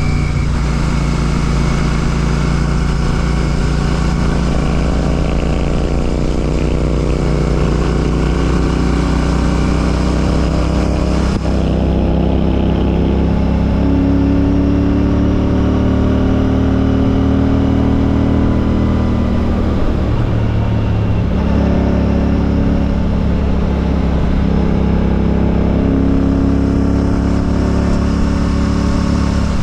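Royal Enfield Classic 650's parallel-twin engine running through an aftermarket Ngage exhaust on the move, its pitch rising and falling with the throttle in the first half, then holding steadier.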